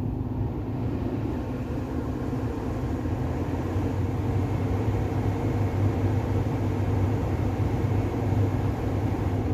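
Ford Ranger 2.2 running steadily: a low hum under an even rush of air, with no distinct rattle or knock standing out.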